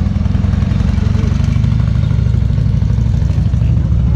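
A vehicle engine idling close by: a steady, low, even rumble.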